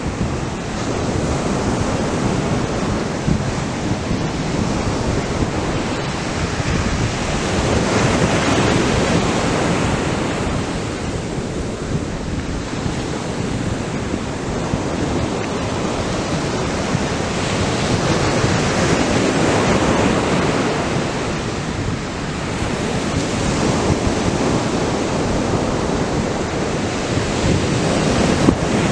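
Atlantic surf breaking on the beach, a continuous wash that swells and eases every several seconds, with wind buffeting the microphone.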